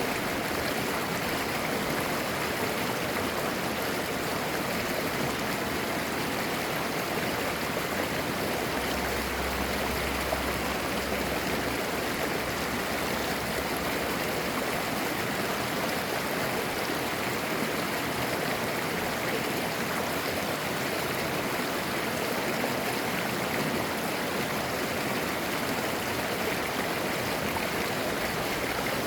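Mountain stream flowing and babbling over rocks, a steady, even rush of water.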